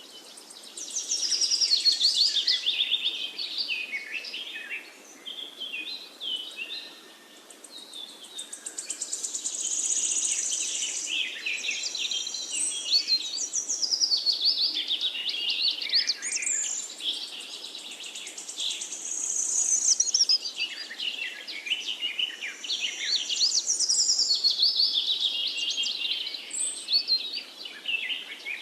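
Several songbirds singing at once in a dense, overlapping chorus of chirps and trills, over a faint steady background hiss.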